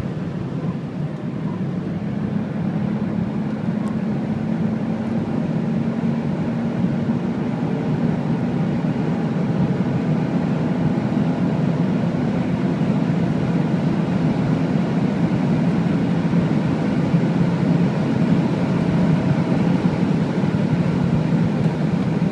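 Mercedes-Benz CL65 AMG's 6.0 V12 biturbo engine pulling hard at high speed under full acceleration, its steady low drone mixed with wind and road rush, slowly growing louder.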